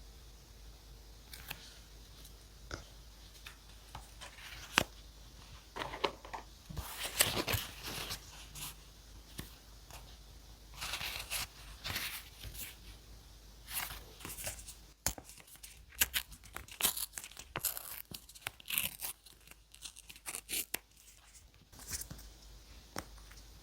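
Paper being torn and crinkled in several irregular strips, with sharp small clicks and rasps of handling in between.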